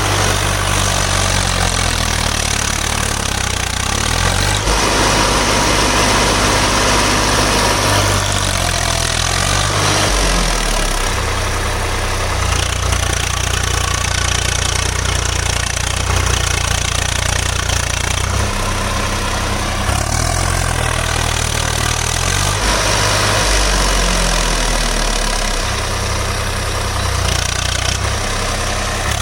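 Swaraj tractor's diesel engine running, its low note stepping up and down in speed several times.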